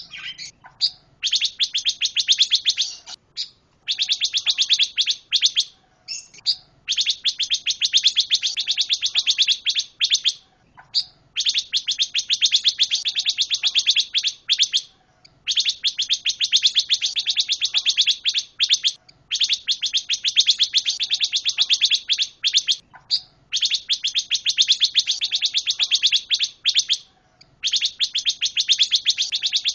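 Pancawarna songbird singing hard, in long phrases of very rapid, high chattering trills, each two to three seconds long, separated by short pauses.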